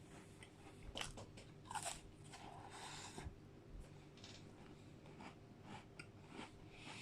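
Faint close-miked chewing and biting, with scattered small crunches and clicks, from a person eating a melted McFlurry mixed with digestive biscuits.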